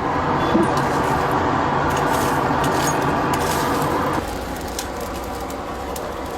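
Blacksmith's forge fire rushing steadily, with scattered faint crackles; the rush drops abruptly to a lower level about four seconds in.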